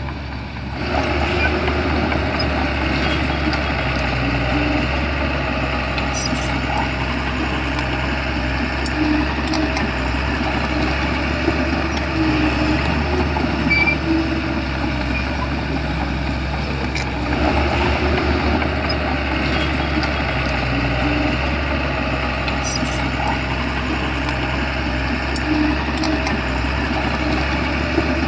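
Shantui bulldozer's diesel engine running steadily while working, with scattered mechanical knocks and clatter; it grows louder about a second in.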